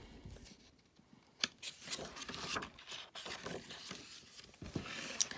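A picture book being handled and its pages turned: paper rustling with a few sharp clicks.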